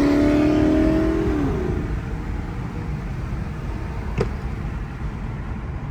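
A car engine holds a steady note, dips slightly in pitch and fades out over the first two seconds as the car drives off. A low rumble remains, with one brief tick about four seconds in.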